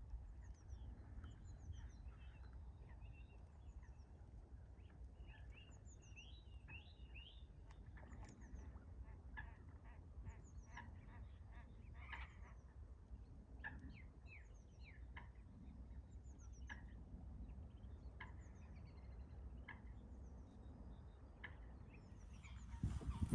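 Waterfowl calling faintly, with short repeated calls and small birds chirping high above them, over a steady low rumble. A louder noise comes in just before the end.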